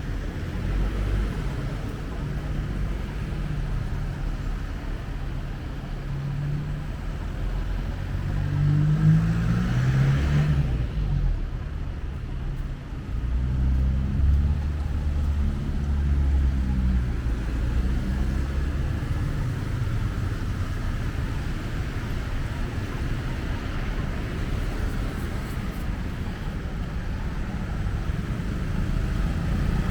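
Street traffic: vehicle engines passing close by, with one vehicle revving up, rising in pitch, about nine to ten seconds in.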